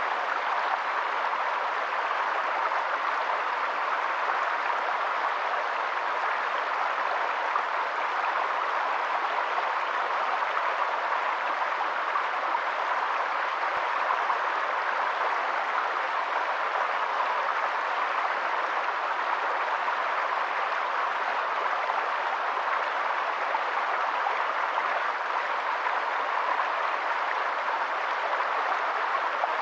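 Flowing stream: a steady, even rush of running water that holds unchanged throughout.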